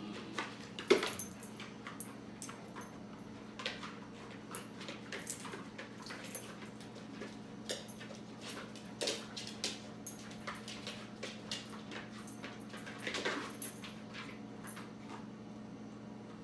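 Dogs making short, scattered sounds of movement and small vocal noises, with the loudest about a second in and another cluster around thirteen seconds in. A steady low hum runs underneath.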